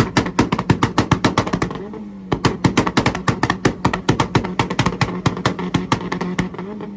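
Car engine held on a two-step launch-control rev limiter: a steady engine note chopped by rapid exhaust pops and bangs, about seven a second. The pops break off briefly about two seconds in, then resume and stop shortly before the end as the revs drop.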